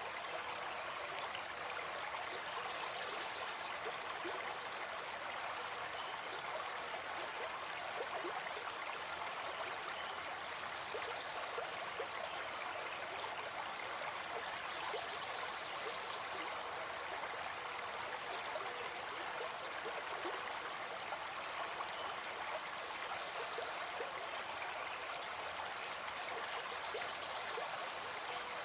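Gentle forest stream flowing steadily, an even, continuous rush of water.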